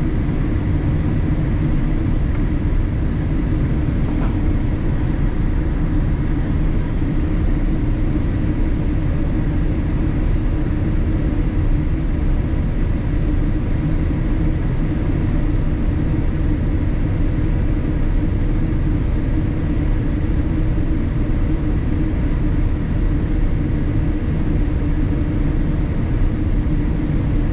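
Steady, loud cabin noise inside a Boeing 787-8 airliner: an even low rumble of engines and airflow, with faint steady tones above it.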